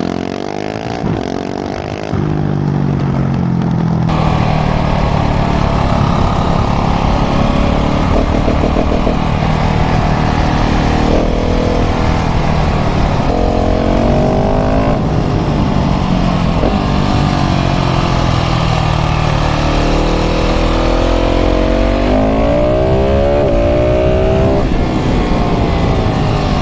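KTM 690 SMC R's single-cylinder LC4 engine through a full LeoVince exhaust, pulling hard under acceleration. The revs climb and drop back repeatedly with quick upshifts through the gears.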